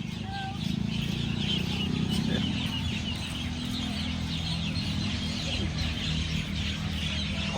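A large flock of birds chattering: a dense, steady mass of short high chirps and calls, over a low steady hum.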